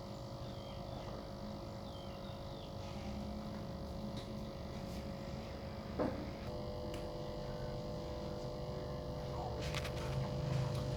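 Aquarium pump humming steadily, with a single click about six seconds in.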